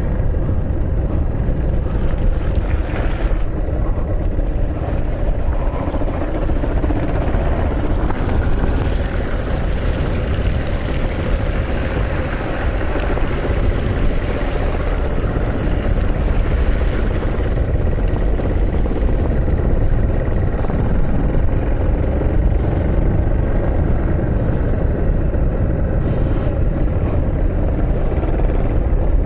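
Steady low rumble of a vehicle in motion, running evenly with no break or change.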